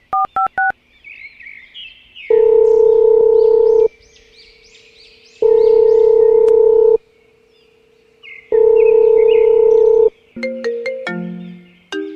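A mobile phone call ringing out on speaker: a quick run of rising beeps, then three long, steady ringback tones about three seconds apart, then a ringback melody starts near the end. High chirping calls sound faintly in the background.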